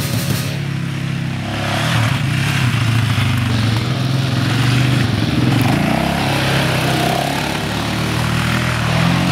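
Yamaha Raptor 700R quad bike's single-cylinder four-stroke engine running under throttle while riding, getting louder about a second and a half in.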